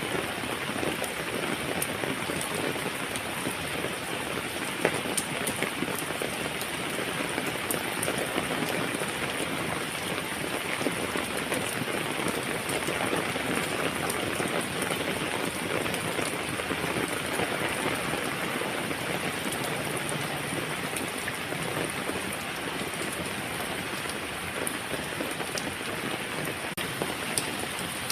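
Heavy rain falling steadily, with scattered sharper drops ticking on a surface.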